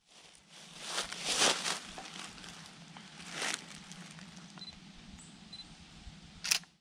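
Footsteps rustling and crunching on a forest path: a few louder crunches about a second in, again at three and a half seconds and near the end, over a steady faint hiss, with two tiny high chirps in between.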